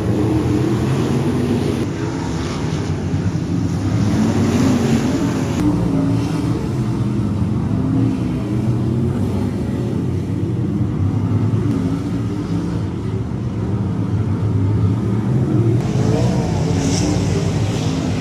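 Several race car engines running together, their pitch rising and falling as they rev and ease off.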